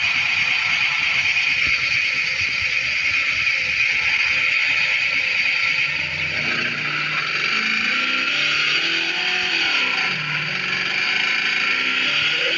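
An engine running steadily, its noise even throughout, with fainter low pitches shifting up and down from about halfway in.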